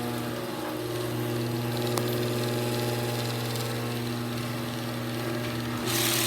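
Genie screw-drive garage door opener running, its motor turning the long threaded rail with a steady hum while it moves the door. There is a single sharp click about two seconds in, and near the end the sound turns suddenly louder and brighter, with a harsh rattling hiss.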